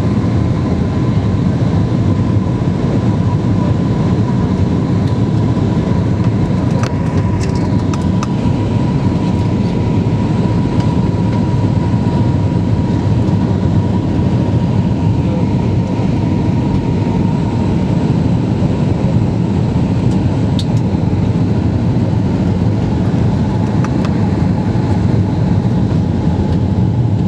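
Steady cabin noise of a jet airliner in flight: engine and airflow rumble with a faint steady whine, and a few light clicks.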